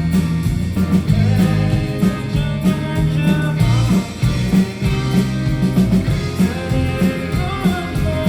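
Indie rock band playing live, a voice singing over electric guitar, bass and drums.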